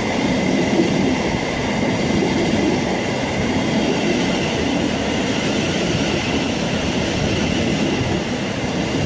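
A long electric passenger train running straight through the station without stopping: steady wheel-on-rail rumble and rattle with a faint high whine, holding steady throughout.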